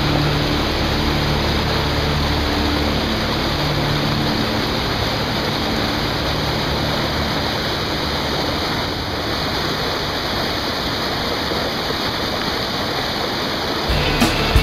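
Whitewater river rushing steadily, a constant roar of fast water at a river wave. Just before the end it cuts off abruptly and a sound with a regular beat takes over.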